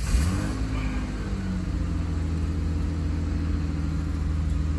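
Ford car's engine starting: it catches right at the start, revs up briefly over the first second or so, then settles into a steady idle.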